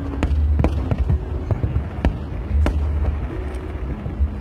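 Aerial fireworks bursting: a string of sharp bangs and pops at irregular intervals over a low, rumbling boom.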